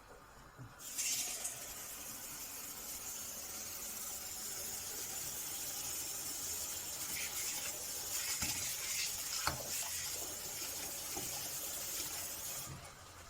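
Water running steadily from a tap. It starts about a second in and stops shortly before the end.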